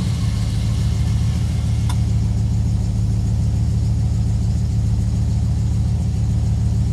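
A 1971 Dodge Charger's 318 V8 idling steadily, moments after starting.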